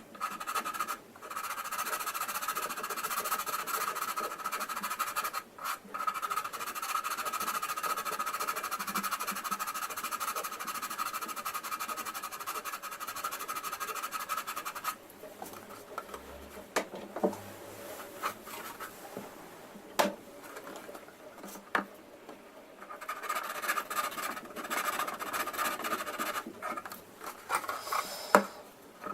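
Hand sanding on a plastic model kit's fuselage seam, rubbing to level a step between the joined parts. The scratchy rubbing stops about halfway through for several seconds, leaving a few light clicks and taps, then starts again near the end.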